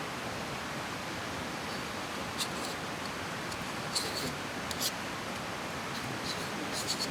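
Steady rushing of a river flowing, with a few faint, sharp clicks scattered through it.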